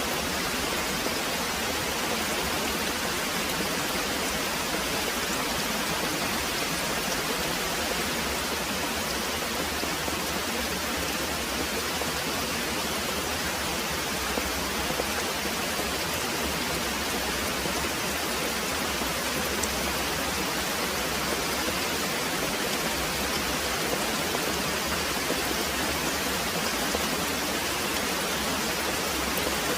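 Very heavy rain pouring steadily: an even, unbroken hiss with no change in level.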